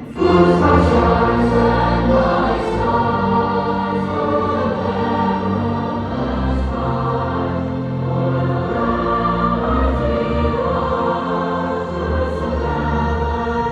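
A choir singing held chords that change every second or two, with a sustained low bass underneath; it starts abruptly.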